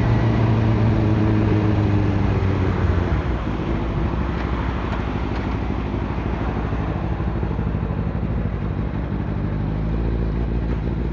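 Motorcycle engine running at a steady pitch for about three seconds, then dropping back under an even rushing noise, with the steady engine tone coming back near the end.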